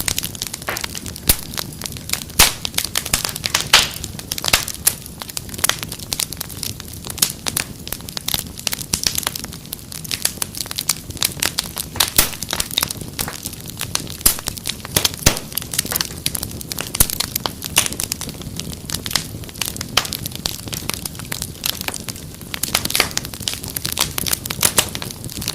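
Wood fire crackling: dense, irregular pops and snaps over a low, steady rumble of flame.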